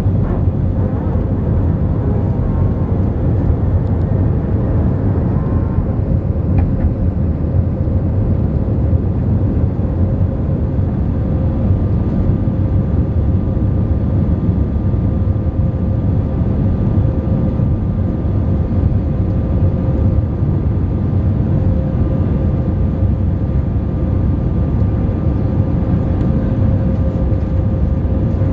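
Airbus A318 jet engines and airflow heard inside the passenger cabin: a steady, loud rumble with a thin constant whine running through it.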